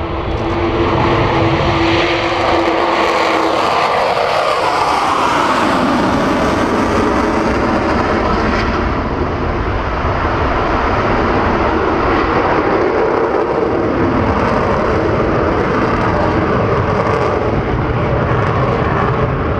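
Jet engines of the Avro Vulcan bomber XH558, four Rolls-Royce Olympus turbojets, running loud as it flies past. A steady tone drops in pitch about four to six seconds in, then a dense, steady jet noise runs on.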